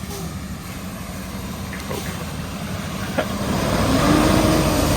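A truck driving through deep floodwater: a steady engine rumble, with the engine and the rush of pushed water growing louder from about three and a half seconds in as it passes.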